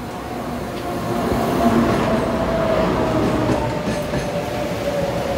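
Taiwan Railways electric local train pulling into a station, its running noise growing louder as it approaches, with a steady tone that slowly falls in pitch as the train slows.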